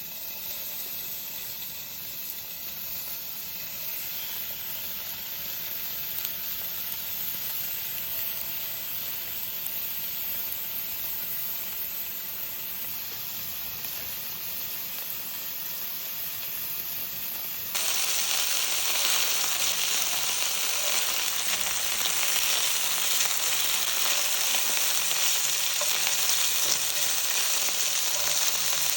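Food sizzling as it fries in a pan, a steady hiss that turns suddenly louder about eighteen seconds in.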